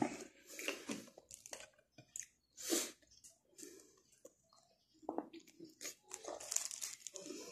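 Close-up eating sounds: a person biting into and chewing a soft monay bread roll stuffed with pancit canton noodles, in short, irregular mouth sounds.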